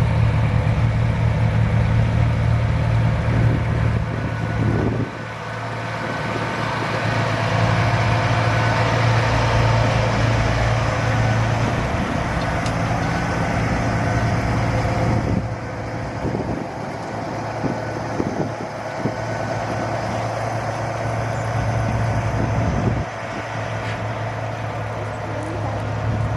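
Heavy truck engines running. A deep, steady engine note is strongest for the first five seconds, then drops back under general engine noise, with further changes in level about fifteen and twenty-three seconds in.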